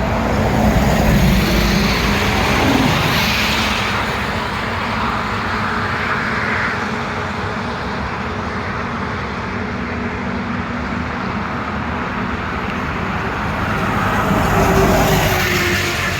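Highway traffic with heavy trucks passing close by: a steady engine drone and tyre noise that swells as a vehicle goes past about a second in, and again near the end.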